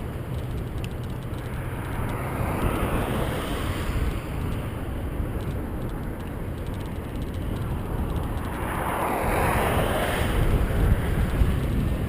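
Wind buffeting a GoPro's microphone while riding a bicycle, a steady rumbling rush. Twice a broad swell of noise rises and fades, about two seconds in and again about eight seconds in.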